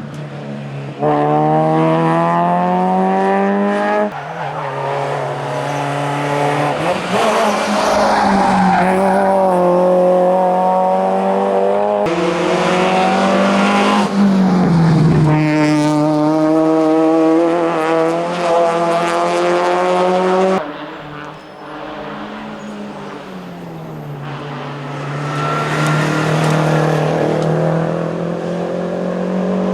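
Hillclimb race cars accelerating hard, engines climbing in pitch and dropping back at each gear change. There are abrupt switches from one car to the next, and a quieter, more distant run in the last third.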